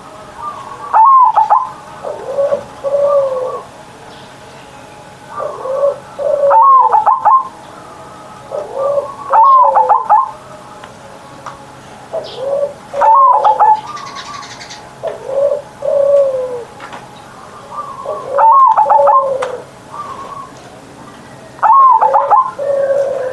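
Zebra dove (perkutut) singing: repeated phrases of soft cooing notes ending in a quick trilled coo, every few seconds.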